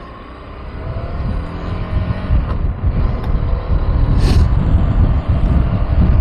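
KTM 390 Adventure's single-cylinder engine pulling away and revving up as the bike accelerates, its pitch rising. Wind rumble on the microphone grows louder from about halfway as speed builds.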